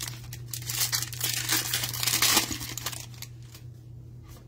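Foil wrapper of a trading-card pack being torn open and crinkled, a crackling that is loudest over the first three seconds and then dies down. A steady low hum runs underneath.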